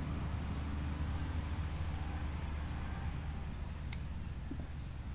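Small birds chirping: short, high notes that drop in pitch, repeated every half second or so, over a steady low rumble. A single sharp click comes about four seconds in.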